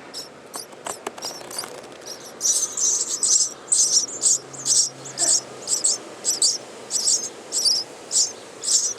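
Nestling birds begging with thin, high-pitched chirps, a few at first and then a steady run of about two to three a second from a couple of seconds in: the hungry calls of chicks waiting to be fed.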